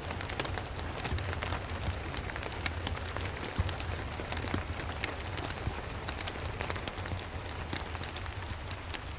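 Steady rain with a wood fire crackling: a dense even hiss with many sharp cracks and ticks, one louder crack about three and a half seconds in, over a steady low rumble.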